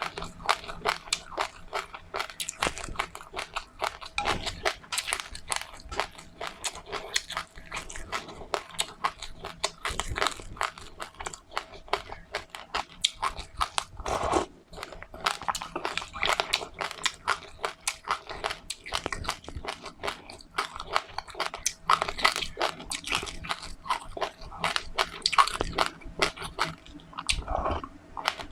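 A person chewing crunchy seeds close to the microphone, with dense, rapid crackles and crunches throughout.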